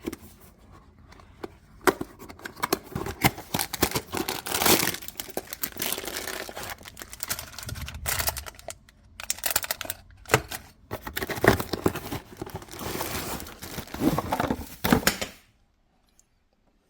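Packaging of a new water filter being unpacked by hand: paper and plastic rustling and tearing in uneven bursts with sharp snaps. It stops suddenly about a second and a half before the end, leaving near silence.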